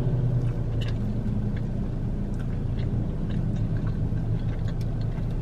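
Mouth sounds of chewing a bite of a breaded fried chicken sandwich, with small wet clicks, over a steady low hum from the car she is sitting in.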